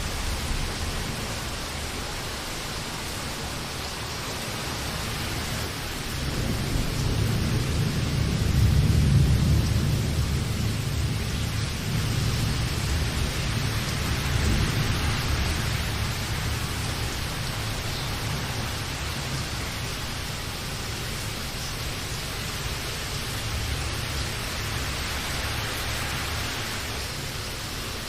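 Steady rain, with a low rumble of thunder that swells about a quarter of the way in and slowly dies away.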